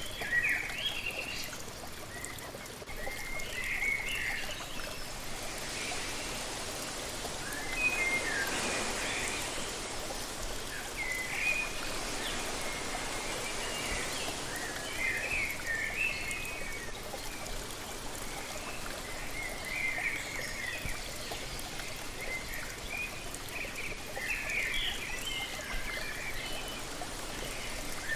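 Waterfall water rushing steadily, swelling louder for a few seconds about a third of the way in, with small birds chirping in short bursts every few seconds.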